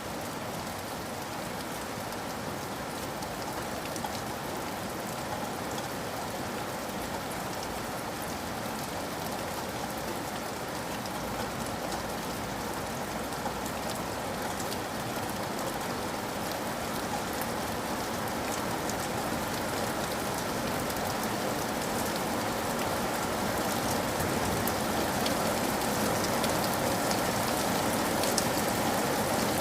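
Steady rain falling on a surface: an even hiss with scattered drop ticks, growing gradually louder.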